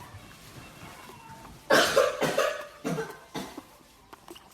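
A run of four short cough-like hacks starting under two seconds in, each a little weaker than the last.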